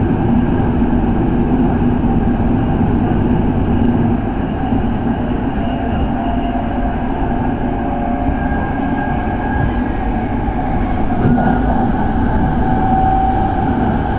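Hanshin Main Line electric commuter train running at speed, heard from inside the car: a steady rumble of wheels on rail with a faint motor whine.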